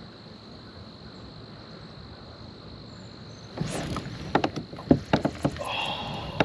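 Steady high drone of crickets, then about three and a half seconds in a burst of irregular knocks, clatter and rustling from handling fishing gear in a kayak.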